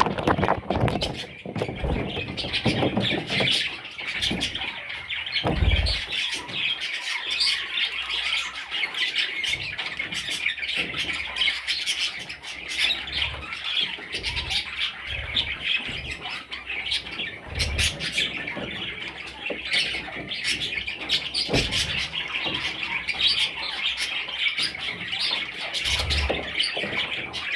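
A group of budgerigar chicks calling continuously: many overlapping high calls with no pause, with a few soft low thumps now and then.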